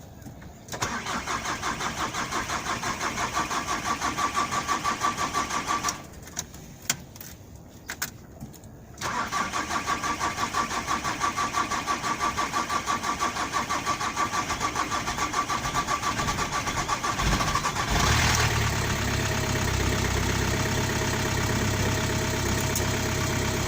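Volkswagen Transporter T5 pump-injector diesel being cranked on the starter from cold: a crank of about five seconds in even pulses that fails, a pause of about three seconds, then a second crank of about nine seconds before the engine catches about three-quarters of the way through and settles into a steady idle. The hard cold start is the sign of worn injector seats in the cylinder head, which the mechanic says let fuel from the return line drain away.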